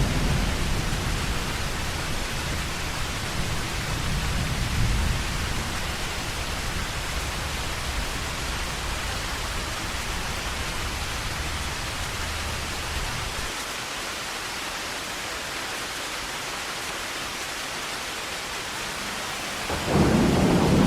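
Heavy rain falling steadily as an even hiss, under a low thunder rumble that dies away about two-thirds of the way through. A new peal of thunder breaks in loudly just before the end.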